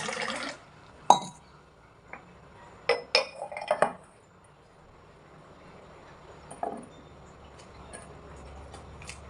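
Dishes and glassware clinking together: one sharp clink about a second in, a quick run of clinks around three to four seconds, and a softer one later. Running water cuts off just at the start.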